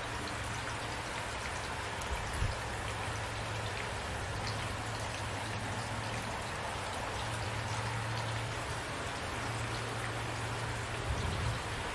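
Steady rain falling, with scattered individual drops ticking and a low steady hum underneath. Two brief low thumps, one early and one near the end.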